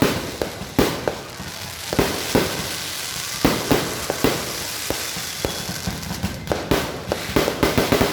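Fireworks going off in an irregular series of sharp bangs, with crackling between the louder reports and a quicker run of bangs near the end.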